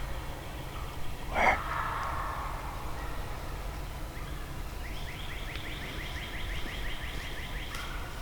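Wild turkey gobble about a second and a half in, then a bird's rapid series of repeated high notes lasting about three seconds near the end, over a steady low rumble of wind or ambience in the bottomland woods.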